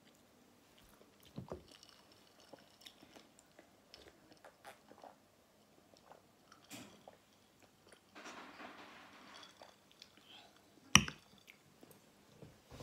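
A person eating noodle soup up close: wet chewing and scattered small mouth clicks, with a short rushing stretch about eight seconds in and one sharp click about eleven seconds in, the loudest sound.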